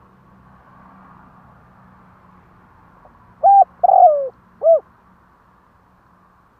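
Spotted dove cooing: one loud three-note phrase a little over three seconds in, a short note, then a longer note that falls in pitch, then another short note. A faint hiss comes before it.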